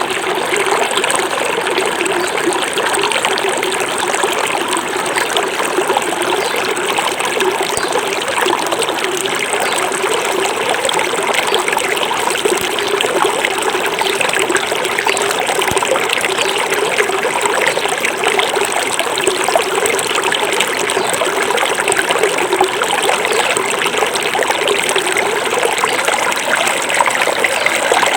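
Small forest river flowing steadily over stones, a continuous babbling and trickling rush of water.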